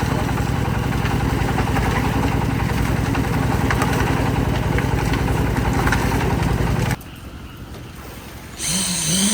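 A small engine running steadily with a fast, even throb, which stops abruptly about seven seconds in. Near the end a different, higher whining sound starts.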